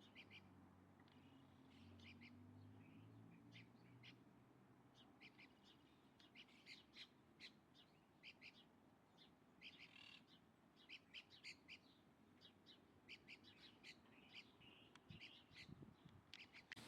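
Faint bird calls: many short, high chirps in quick irregular runs, denser in the middle and near the end.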